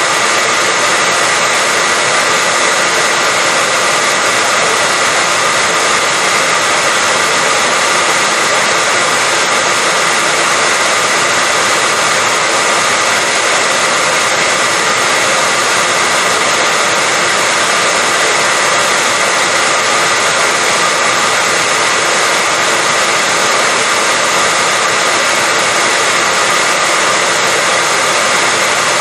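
Hair dryer running on one setting: a loud, perfectly steady rush of blowing air with a faint motor whine, held without change.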